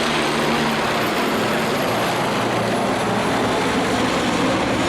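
Mil Mi-26 heavy-lift helicopter running: a steady, loud rush of turbine and rotor noise with a faint high whine.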